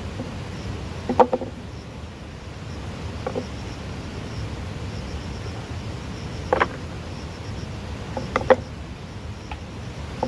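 Several short, sharp knocks, one pair close together near the end, over a steady low background noise and faint insect trilling.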